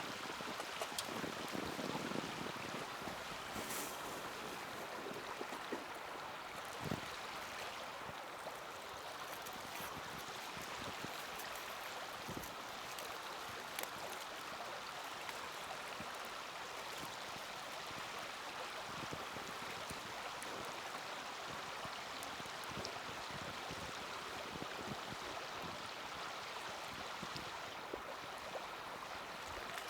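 Small wood fire burning, with a few sharp crackles and pops over a steady rushing hiss.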